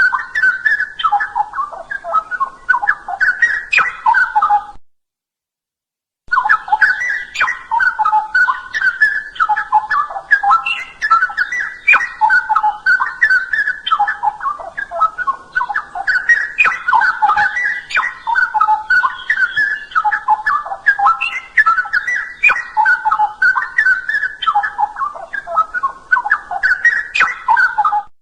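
Straw-headed bulbul (cucak rowo) in full song: quick warbling notes that jump up and down in pitch, phrase after phrase. The song breaks off cleanly for about a second and a half about five seconds in, then carries on.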